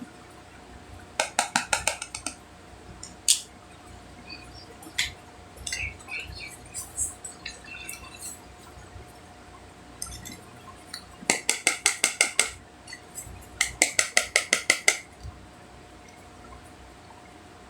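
Hard cosmetic packaging being tapped and handled: three runs of rapid clicking taps, about eight a second, with scattered single taps and clicks between them.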